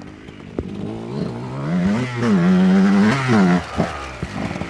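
Dirt bike engine revving: the pitch climbs about two seconds in, holds high for about a second, then drops back. A few short knocks sound around it.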